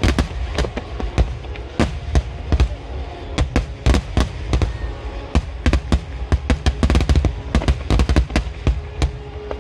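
A dense barrage of aerial firework shells bursting, several sharp bangs a second over a continuous low rumble.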